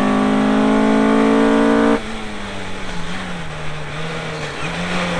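Race car engine heard from a bumper-mounted camera, holding a loud, steady high note under full throttle. About two seconds in the throttle is lifted and the note drops abruptly to a quieter, lower drone that wavers slightly as the car coasts.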